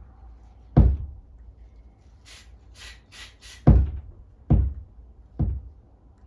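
Four hard knocks of something solid struck against a hard surface: one about a second in, then three in quick succession in the second half. Between them come four short hissing spray bursts.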